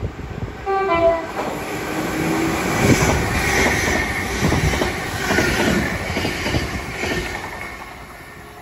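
Greater Anglia Class 720 electric multiple unit sounding its horn briefly about half a second in, then running through the station at speed without stopping. The loud rush of wheels on rail and passing coaches fades near the end as the train draws away.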